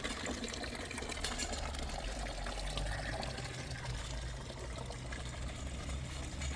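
Water pouring and trickling steadily, likely the chickens' drinking water, over a low steady rumble.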